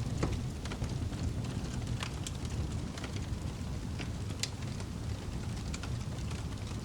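Wood fire crackling: scattered sharp pops and snaps at irregular intervals over a steady low rumble of the flames.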